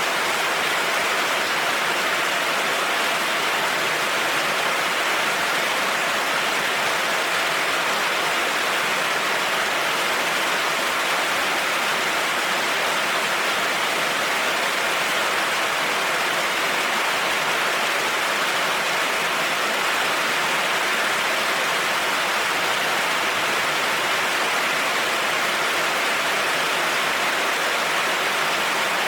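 Heavy rain falling steadily, an even hiss that holds at one level throughout, with no thunder.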